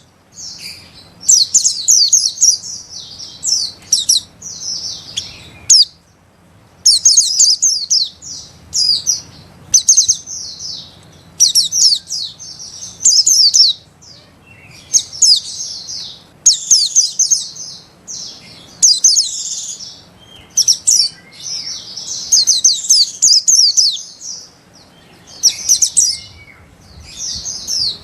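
White-eye (pleci) song: repeated bursts of high, rapid twittering, each lasting a second or so, with short pauses between them. This is the chattering 'ngeriwik' song used to train young caged white-eyes.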